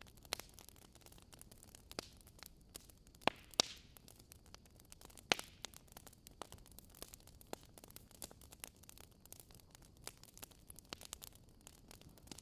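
Wood fire crackling in a fireplace: a soft steady hiss with irregular small snaps and a few louder pops, the strongest about three and a half and five seconds in.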